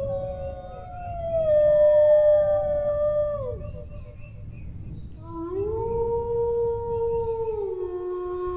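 A dog howling in long drawn-out notes. The first howl holds a steady pitch and then falls away, and after a short pause a lower howl rises, holds, and steps down to a lower note near the end.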